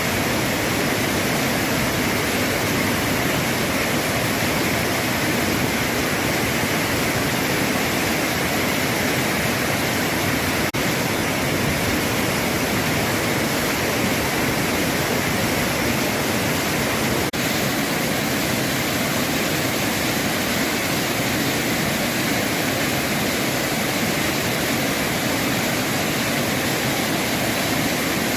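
Large, heavy-flowing waterfall: a loud, steady rush of falling water, with two split-second dips in level.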